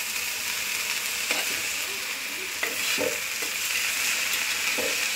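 Chopped okra frying in oil in a wide pan, a steady sizzle, with a steel spatula stirring and scraping the pieces against the pan a few times.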